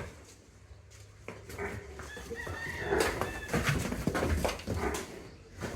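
A rooster crowing, one drawn-out call starting about a second and a half in.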